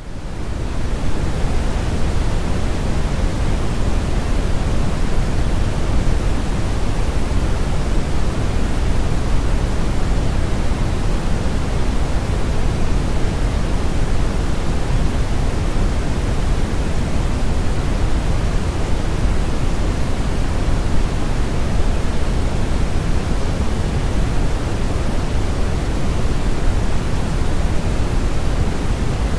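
Steady brown noise: a deep, even rushing hiss with most of its energy in the low end and the highs rolled off, fading in over the first second.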